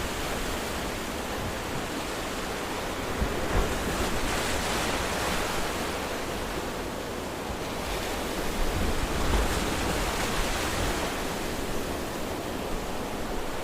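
Ocean surf washing in and drawing back, a continuous rushing hiss with a low rumble underneath, rising and falling in slow swells.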